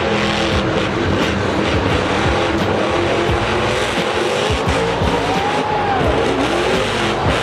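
Monster truck engines revving, their pitch rising and falling repeatedly, over music.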